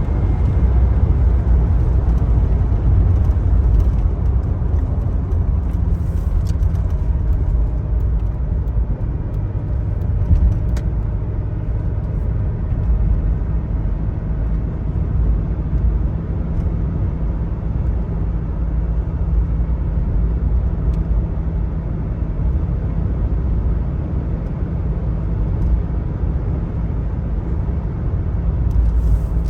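A 1999 Chevrolet Blazer 4x4's 4.3-litre V6 running while the truck is driven. Engine and road noise make a steady low rumble.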